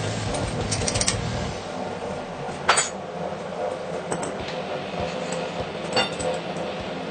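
A few sharp metallic clinks and knocks of metal parts being handled, the loudest about three seconds in, over a steady hiss.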